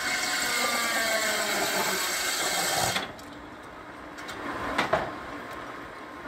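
Frick edger's circular saw blades cutting a board, a loud whine that sags slightly in pitch under load, then cuts off abruptly about three seconds in as the cut ends. Afterwards the mill runs quieter, with a couple of sharp knocks near the end.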